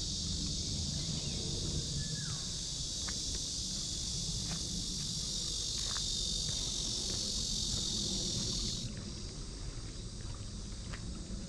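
Cicada chorus: a loud, steady, high-pitched buzz that stops abruptly about nine seconds in, leaving a low rumble and a few faint ticks.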